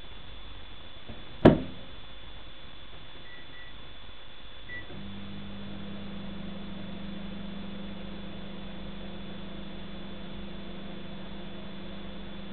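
Microwave oven: a loud clunk, like its door being shut, then three short keypad beeps. About five seconds in, the oven starts running with a steady hum.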